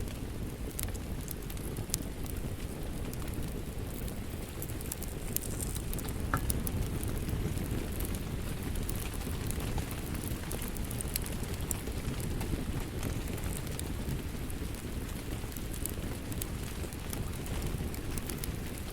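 Wood fire crackling with scattered sharp pops over a steady low rumble of rain.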